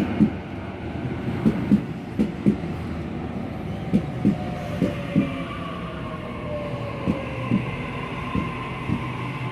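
Sydney Trains Waratah electric train pulling into the platform: wheels knocking over rail joints in pairs, the knocks spacing out as it slows, with a faint whine from its drive slowly falling in pitch.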